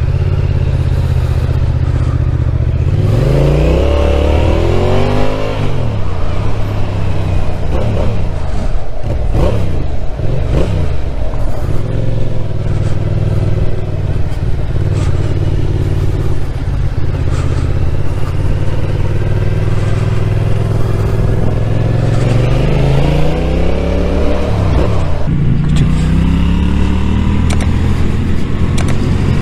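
Yamaha motorcycle engine under way, heard from on the bike with wind noise. The revs climb sharply through the gears about three seconds in and again near the end. In between, the engine drops back and holds a steadier note.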